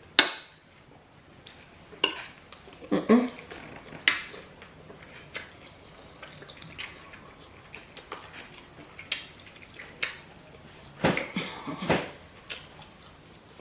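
Metal spoon clinking and scraping against a plate during a meal, in scattered irregular clicks, the sharpest just after the start, with a few soft mouth sounds of eating in between.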